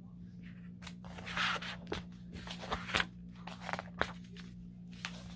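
Paper rustling and scattered small clicks as a picture book is handled and its pages turned, over a steady low electrical hum.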